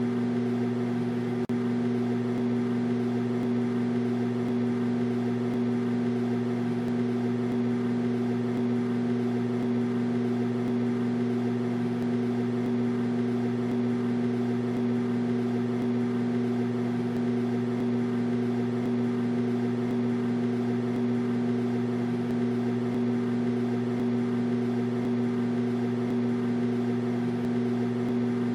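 Microwave oven running: a steady, unchanging electrical hum with a faint fan-like hiss, with one brief dropout about a second and a half in.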